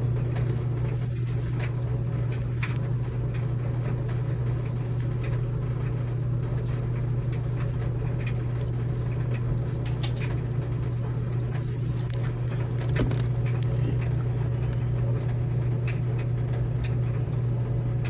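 Midea washing machine filling: water running into the drum over a steady low hum, with a few faint clicks. It is a slow fill, still running after about five minutes, that the owner says never fills the tub to the top.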